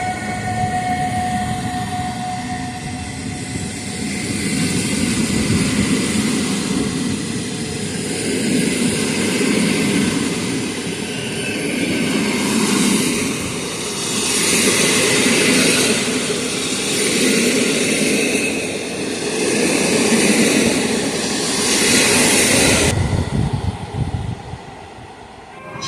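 A train running past on the rails: a continuous rumble and hiss of wheels on track that swells and fades every two to three seconds as the cars go by, then drops off abruptly near the end.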